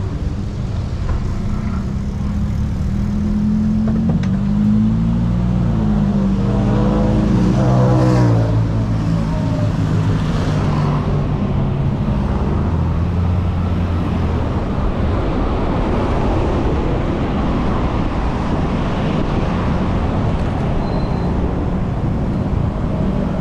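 Busy city road traffic: car and motorbike engines running steadily close by, with one passing vehicle's engine note bending up and then down about seven to eight seconds in.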